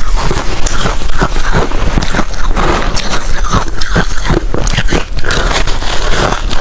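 Ice being bitten and chewed close to the microphone: a rapid, near-continuous run of loud, irregular crunches.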